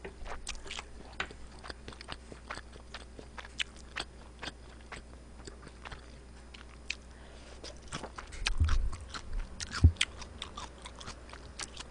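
Close-miked chewing of fried rice and kimchi: a steady run of small wet mouth clicks and smacks. A few dull low thumps come about eight seconds in, with a sharper one near ten seconds.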